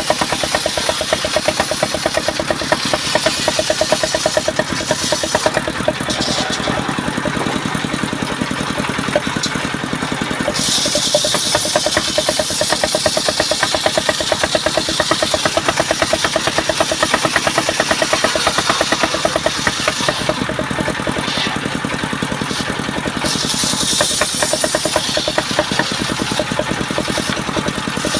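Engine-driven sawmill machinery running steadily, a rapid, even pulsing, with a hiss in the highs that fades out twice for several seconds and comes back.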